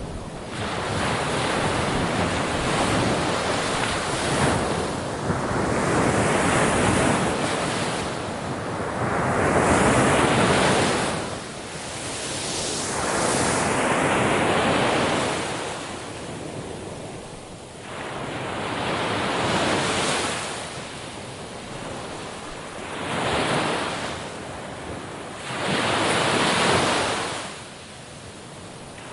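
Sea waves breaking on a shore in repeated surges, each swelling and washing back over a few seconds, with a steady rush between them.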